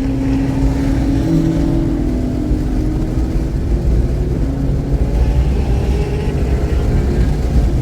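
Race car engine running hard on track, its pitch held fairly steady and easing slowly downward, over a heavy low rumble. It runs cleanly, with no misfire.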